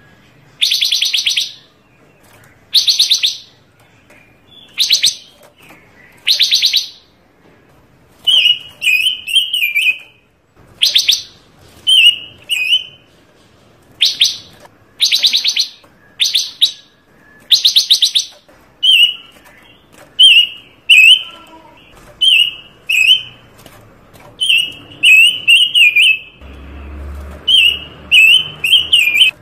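Songbird known in Indonesian as panca warna singing loudly. It sings repeated phrases: dry, rapid trills about half a second to a second long, alternating with runs of shorter, quick chirping notes.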